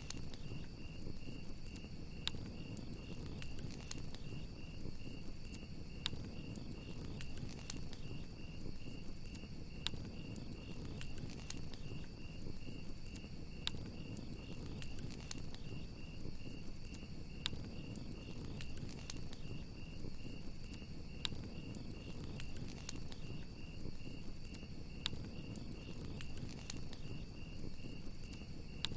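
Campfire crackling, with scattered sharp pops over a low steady rumble. Crickets chirp throughout in a high, steady, pulsing trill.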